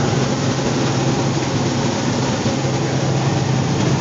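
Heavy truck's diesel engine running steadily under way, heard from inside the cab, with a low even hum over a constant rush of road noise.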